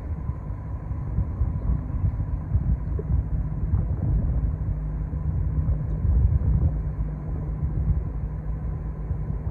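Low, steady rumble of a cargo ship's engine, with a faint steady hum above it and some fluttering that sounds like wind on the microphone.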